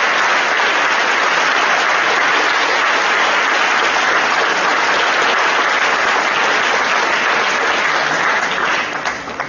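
Audience applauding steadily, dying away into a few last claps near the end.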